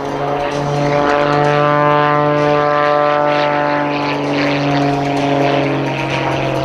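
Propeller-driven aerobatic biplane's piston engine running hard in flight, a steady loud drone with a buzzing propeller note.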